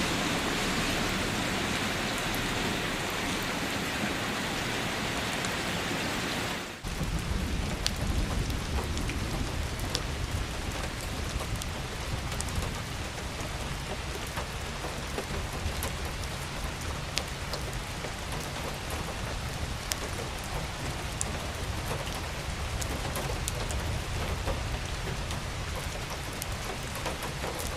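Steady rain falling, with scattered drops ticking sharply and a low rumble underneath. It cuts in abruptly about seven seconds in, replacing a steady higher rushing hiss.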